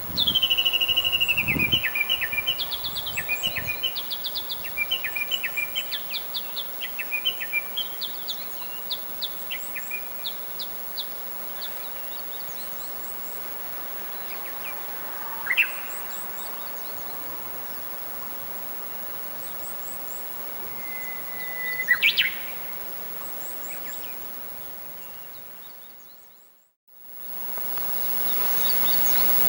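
A Japanese bush warbler gives its long run of repeated, slowing notes (the 'valley-crossing' call), and later a single held whistle ending in a quick phrase, like its 'hoo-hokekyo' song. Faint high chirps of other small birds come between, over steady outdoor background noise, and the sound cuts out for about a second near the end.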